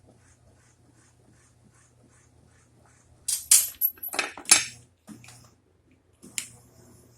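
Metal clanking and rattling from a lift table built on a hospital-bed frame, a loud cluster of clanks about three seconds in and a single sharp knock near the end, over a faint steady low hum.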